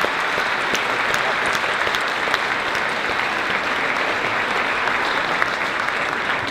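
Large audience applauding steadily, a dense sustained round of clapping for the veterans present.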